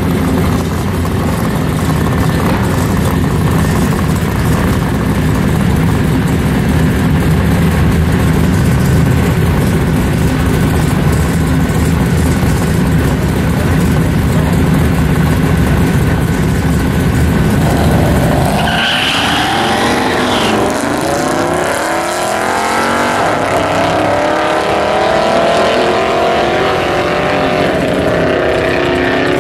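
Drag racing cars, a Chevrolet Camaro and a Dodge Challenger, with a loud, low engine rumble while staged at the start line. About eighteen seconds in the sound changes suddenly, and the engines rev hard through the gears, the pitch climbing and dropping again with each shift as the cars accelerate down the strip.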